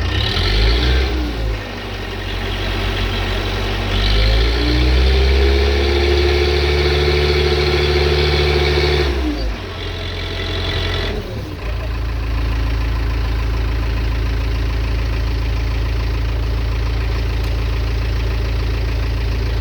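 Heavy diesel engine raised to higher revs and held there for several seconds, dropping back about nine seconds in, then running steadily at idle while the truck is being unloaded.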